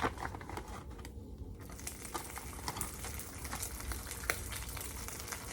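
Dried fish frying in hot oil in a pan on a wood stove: a steady sizzle with scattered crackles and pops, growing stronger about two seconds in.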